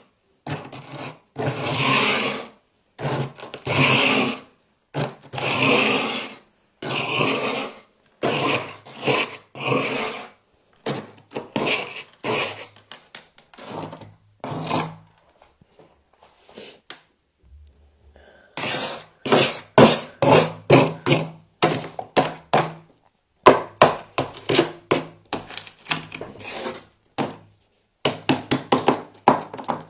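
Frost being scraped off a surface in long rasping strokes, about one a second. After a short lull, about two-thirds of the way in, a quick run of crisp crunching: packed frost being bitten and chewed.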